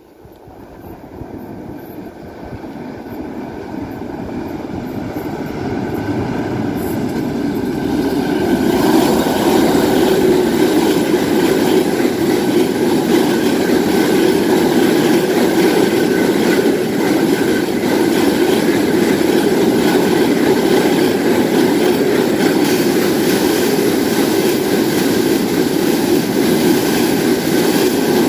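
Freight train hauled by an ET22 electric locomotive approaching and crossing a steel truss railway bridge. The noise grows over the first nine seconds or so, then holds steady and loud as the wagons roll across.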